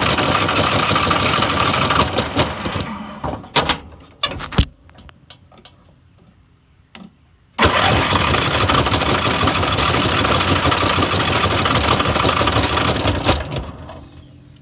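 Riding lawn mower's small engine, its starter fed by wires bypassing a dead starter solenoid, spinning loudly in two runs of several seconds each. Each run dies away, and a few sharp clicks come in the quiet gap between them. The engine will not keep running.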